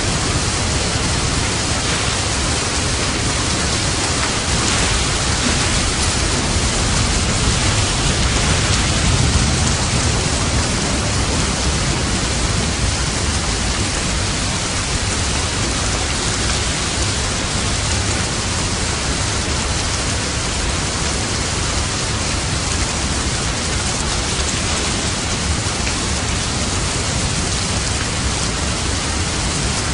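Steady, heavy rain falling, an even unbroken hiss, with a low rumble swelling briefly about eight to ten seconds in.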